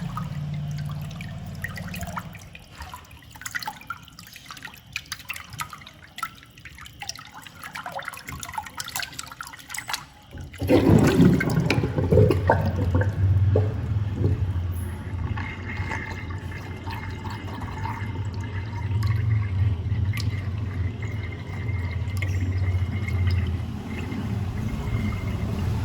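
Water in a sink: scattered drips and trickling, then about ten seconds in a sudden loud rush of water swirling down the drain in a whirlpool, gurgling over a low rumble.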